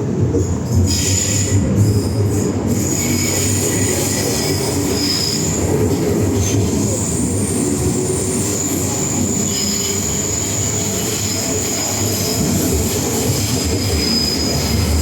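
MTR M-Train electric multiple unit running on track, a steady low rumble with high-pitched wheel squeal that sets in about a second in and holds.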